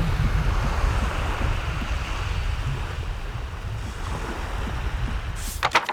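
Sea waves washing onto a sandy beach in a steady hiss, with wind buffeting the microphone as a low rumble. Near the end come a few short crackling knocks before the sound cuts off.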